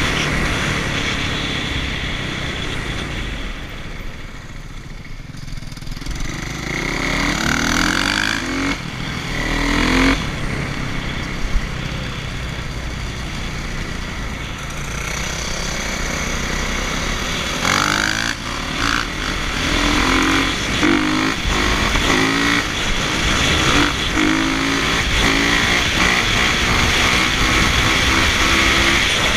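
Dirt bike engine running and revving: the pitch climbs sharply twice about a third of the way in, then a string of short throttle blips follows later on.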